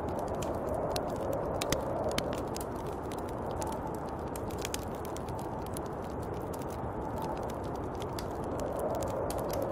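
Snowstorm wind blowing steadily in slow gusts that swell and ease, with many sharp, scattered crackling ticks over it.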